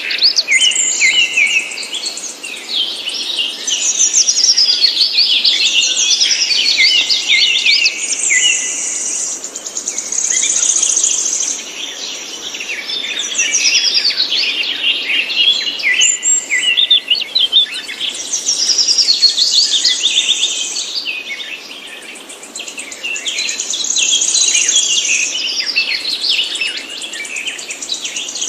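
Songbirds singing continuously: rapid chirps, trills and falling whistled notes that come in phrases, swelling and fading every few seconds, with a steady high buzzing trill at times.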